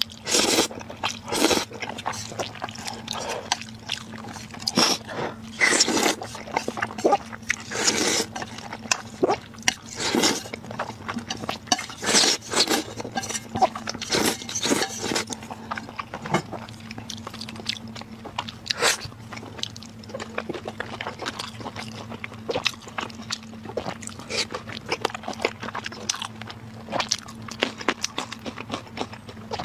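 Close-up eating sounds: irregular bites and chewing, with many sharp crunchy strokes coming at an uneven pace.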